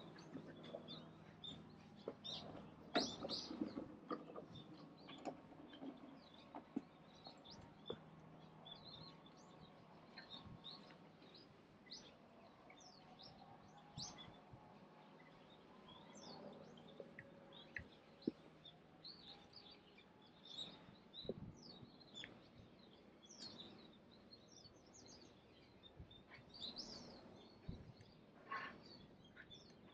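Small birds chirping, many short high calls scattered throughout, faint, with a few soft knocks in between.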